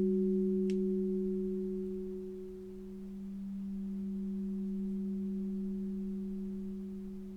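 A sustained sound-healing drone of two steady pure tones, a low one with a fainter one about an octave above, slowly swelling and fading in loudness.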